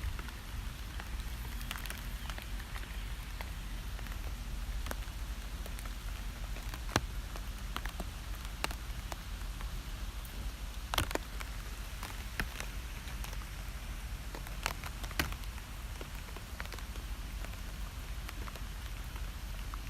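Steady rain falling, with single louder drops striking close by every second or two.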